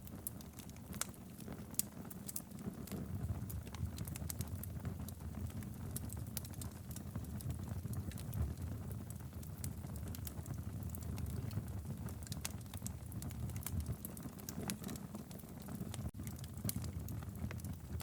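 Wood fire crackling in a fireplace: a steady low rumble of flames with many irregular sharp pops and snaps.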